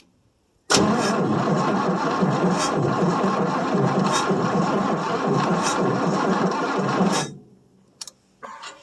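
1967 Chevy C10's 305 small-block V8 being cranked over by the starter for about six seconds, stopping abruptly when the key is let up; it does not catch, which the owner puts down to the engine flooding itself.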